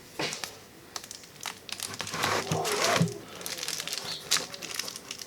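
Reflective insulation crinkling and rustling in irregular crackles as it is handled and wrapped around a bucket.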